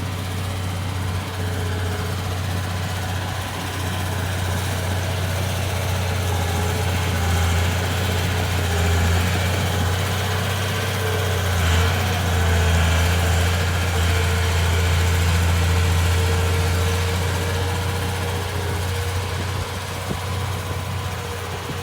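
Komatsu D31P bulldozer's diesel engine running steadily with a deep hum, growing a little louder for a while in the middle.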